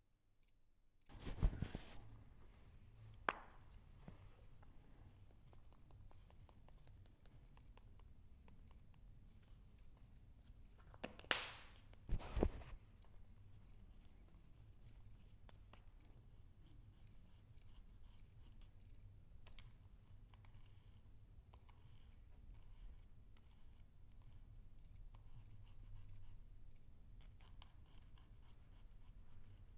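Cricket chirping: a short, high chirp repeated roughly every half second, over a low hum. A few brief louder noises break in, one just over a second in and two around eleven and twelve seconds in.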